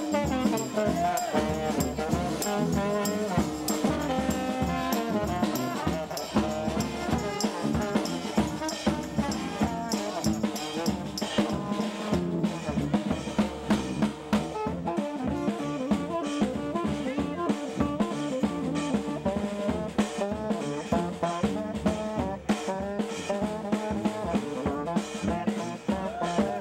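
Brass band playing jazz: trombone and trumpet over a drum kit with a steady beat.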